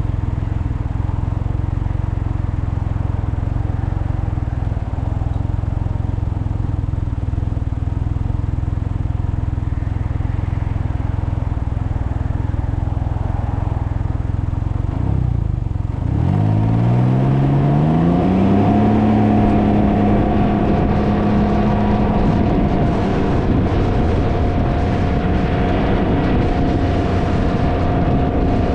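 Can-Am Ryker three-wheeler under way, its engine a steady low rumble under heavy wind noise on the microphone. About halfway through, the engine pitch rises as it accelerates, then holds steady at the higher pitch.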